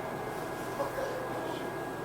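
Steady, fairly quiet hum inside a Toyohashi Railway 1800 series electric train car, a former Tokyu car, with a few faint soft sounds over it.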